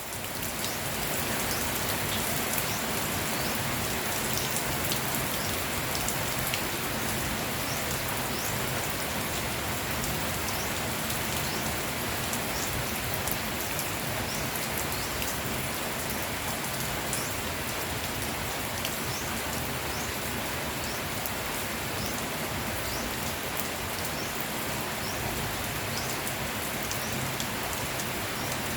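Steady rain falling, with many small drop hits pattering on leaves and surfaces.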